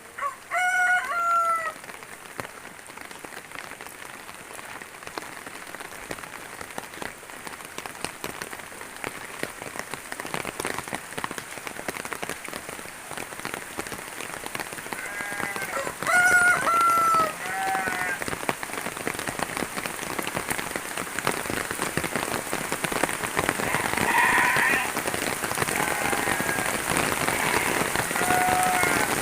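Steady rain falling, gradually getting louder, while a rooster crows twice: once right at the start and again about fifteen seconds in. Shorter calls follow near the end.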